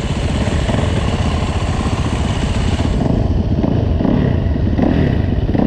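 Four-stroke dirt bike engines running together, a steady fast low pulsing from the warm-up idle.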